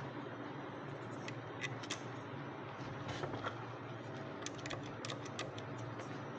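Scattered light clicks and taps of small metal parts and tools being handled while the vacuum motor's carbon brush bracket is refitted, in a few short clusters over a steady background hum.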